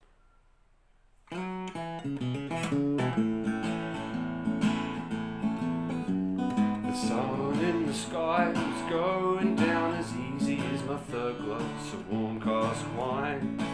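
Instrumental song intro: acoustic guitar strumming starts about a second in, and about halfway a lead melody with bending, wavering notes plays over it.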